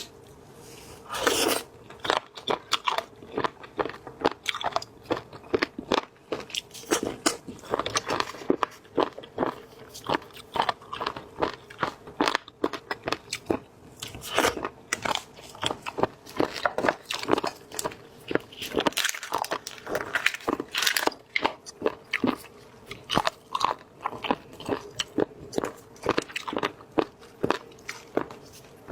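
A person biting and chewing crunchy food close to the microphone: a steady, irregular stream of crisp crunches and wet chewing clicks.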